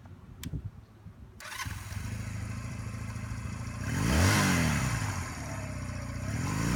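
Honda Rebel 250 motorcycle's parallel-twin engine starting up about a second and a half in and idling, then revved once about four seconds in and revved again near the end.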